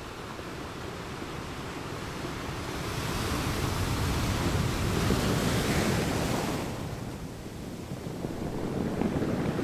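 Wind rushing over the microphone along with the wash of choppy sea water. The rush swells to its loudest a few seconds in, then eases near the end.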